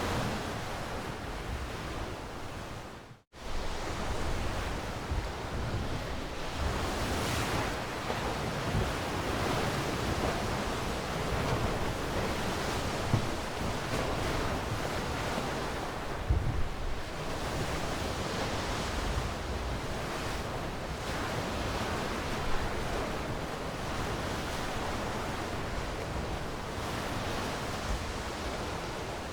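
Ocean waves breaking and washing on a shore: a steady rush that swells and ebbs. It cuts out abruptly for a split second about three seconds in, then resumes.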